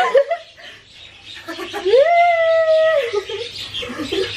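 A person's voice letting out one long, drawn-out cry that rises about two seconds in, holds a steady high note for about a second, then falls away.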